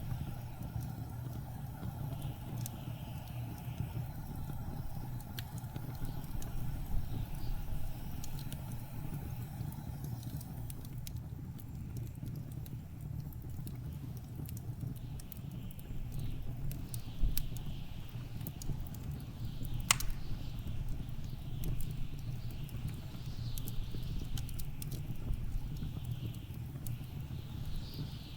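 Wood fire crackling in a fireplace, with scattered small pops and one sharper pop about two-thirds of the way through, over a steady low rumble of blizzard wind.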